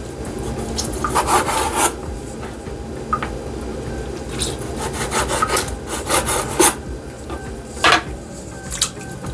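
Irregular rubbing and scraping strokes as pieces of raw oxtail are cleaned by hand, with a few louder strokes about a second in, in a run a little past the middle, and once near the end.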